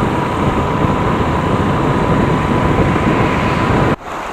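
Wind rushing over the microphone and a scooter running at road speed, with a thin steady high tone over the noise. It cuts off abruptly near the end.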